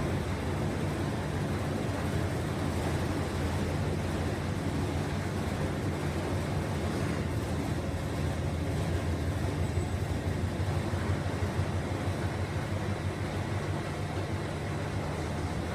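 Dexter T-600 18 kg stainless-steel front-load commercial washing machine running: a steady low hum under a continuous rushing noise, with no distinct knocks or changes.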